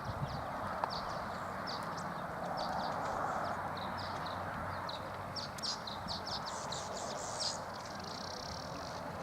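Horse's hoofbeats, a run of light quick taps that comes thicker in the second half, over a steady outdoor background hiss.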